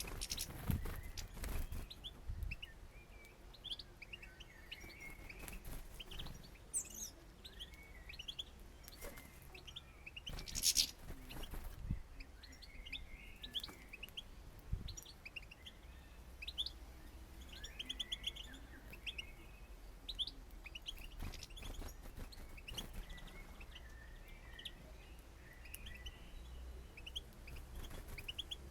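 Small songbirds at a feeder, mostly European goldfinches, twittering and chirping in many short high notes. Short noisy flurries break in now and then, the loudest about ten seconds in, as birds flutter in, take off and squabble.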